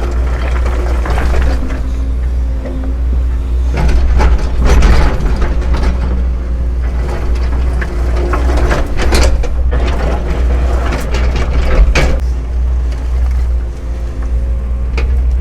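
Excavator's diesel engine running steadily, with the bucket scraping and knocking against rocks and dirt several times.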